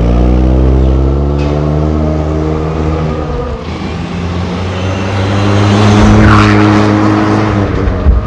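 Proton Preve Turbo's turbocharged four-cylinder engine accelerating through a full stainless-steel exhaust. The pitch climbs at the start and holds, falls away, then climbs again, with a loud rush about six seconds in.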